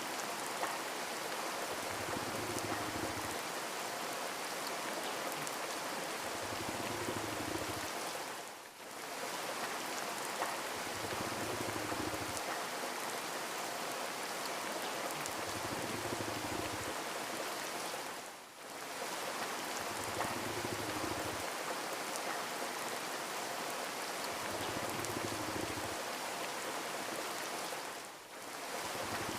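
Steady rain, a dense even hiss of drops, briefly thinning about every ten seconds, with a soft low hum swelling and fading every four to five seconds beneath it.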